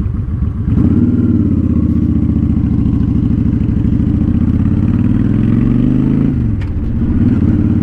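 2007 Honda Shadow Spirit 750's V-twin running through an aftermarket Cobra exhaust under acceleration. The note climbs in pitch for several seconds, dips briefly about six seconds in, then pulls again.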